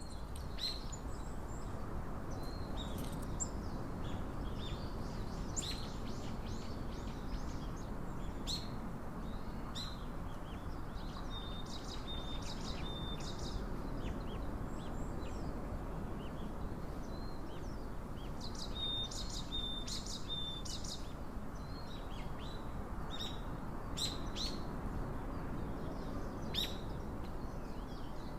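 Small birds chirping with scattered short, high calls, including two longer held whistled notes about twelve and twenty seconds in, over a steady low background rush.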